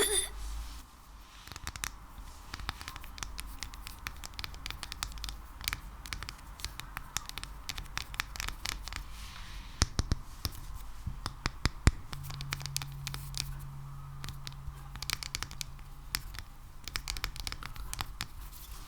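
Hands working a sticky ASMR material, slime or wax, close to the microphone: a dense run of sticky clicks, crackles and scratches, with a few sharper snaps.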